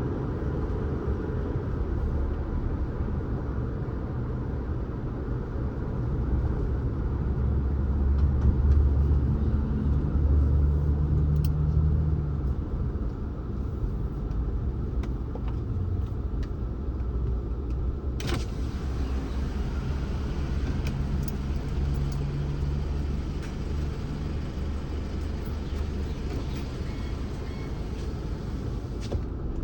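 Car driving along a road: a steady low rumble of tyres and engine, swelling louder for a few seconds before easing back.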